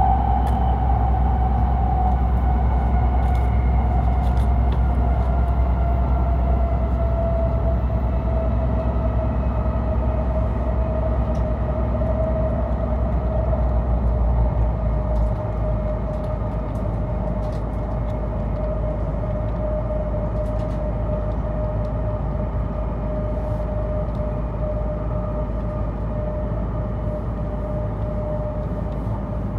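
Cabin noise inside an E7/W7-series Hokuriku Shinkansen train running at speed: a steady rumble of wheels and air with a motor whine that slowly falls in pitch, and a few faint clicks.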